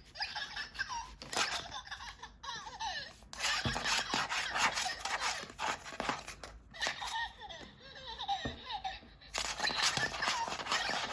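High-pitched giggling laughter, in short bursts, over clicking and crinkling from plastic toys and packaging being handled.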